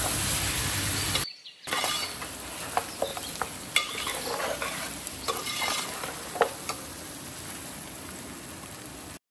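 Mutton korma sizzling in a pot while a spoon stirs it, with a few sharp scrapes and clinks of the spoon against the pot. The sound drops out briefly about a second in, comes back quieter, and cuts off just before the end.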